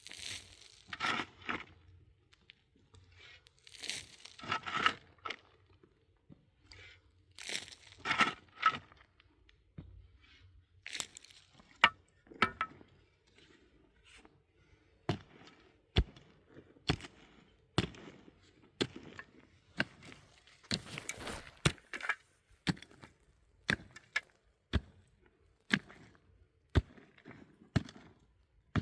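Chopping or digging with a hand tool: a few crunching scrapes, then a steady run of sharp knocks about once a second.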